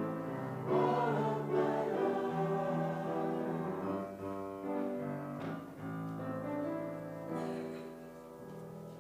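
Choir singing a hymn with piano accompaniment, the music fading toward the end.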